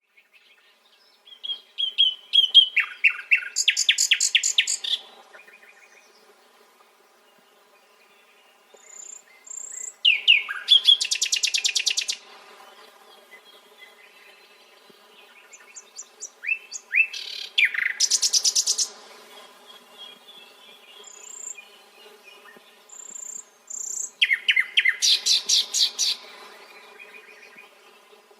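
Nightingale singing: four song phrases of two to three seconds each, separated by pauses, each built of a few whistled notes that lead into fast runs of rapidly repeated notes.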